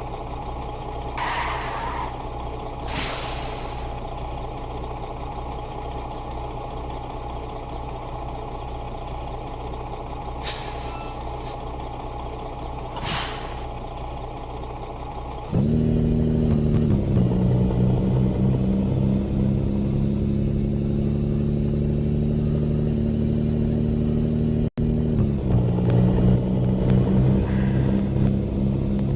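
Heavy truck's diesel engine running steadily, with four short hisses of air. About halfway through the engine suddenly gets much louder and works harder, its pitch stepping a couple of times.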